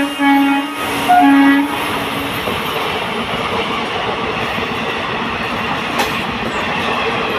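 A train horn gives two short blasts in the first couple of seconds, then a passing train runs on steadily, its wheels rumbling and clacking over the track.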